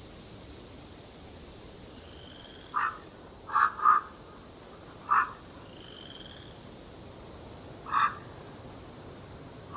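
Short, harsh croaking calls from a wild animal, five in all: one about three seconds in, a quick pair just before four seconds, one about five seconds in and one near the end. Two faint rising whistles sound higher up between them, over a steady faint hiss.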